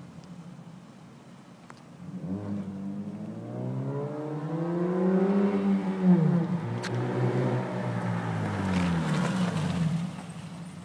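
Mazda 6 engine with its muffler removed, running through the open exhaust: idling, then rising in pitch and falling back twice before settling to idle near the end.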